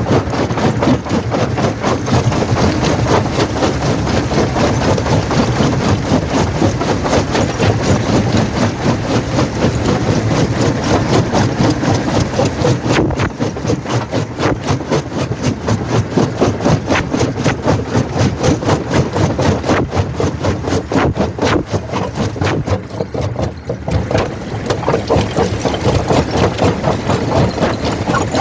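Quarry primary jaw crusher running, a loud, steady mechanical rumble broken into rapid, even pulses, dipping briefly a little over three-quarters of the way through.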